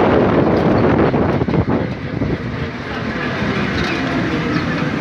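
Wind buffeting the microphone over the running noise of a moving vehicle on the road, gusty for the first two seconds, then a little calmer.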